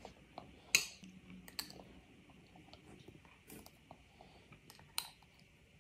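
A toddler eating with a metal spoon: quiet chewing and lip smacks with scattered small clicks, the loudest about a second in and again about five seconds in.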